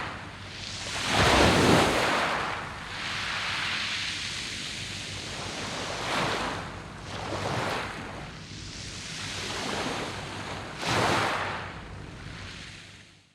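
Waves breaking on a beach of smooth round pebbles, surging in every few seconds. The biggest surge comes about a second in, and another strong one near the end.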